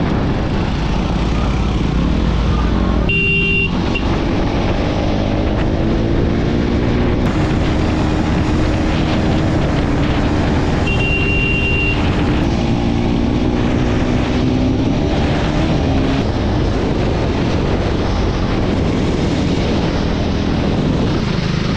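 Motorcycle riding at highway speed: steady engine note under heavy wind rush, with a short high beep twice.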